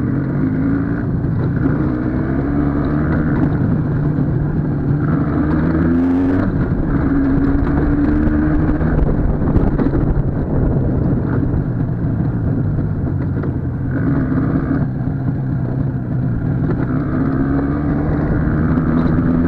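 IZh Jupiter two-stroke twin motorcycle engine running under way, its pitch climbing as it revs and then dropping at each gear change, several times over.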